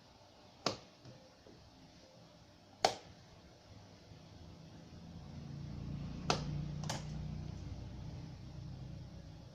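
Four sharp clicks or taps, two spaced well apart early and two close together about two-thirds through, over a low hum that swells and then fades.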